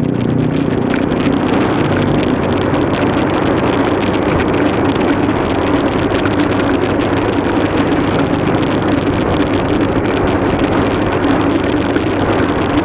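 Motorcycle engine running steadily while riding, with a dense rushing noise over it.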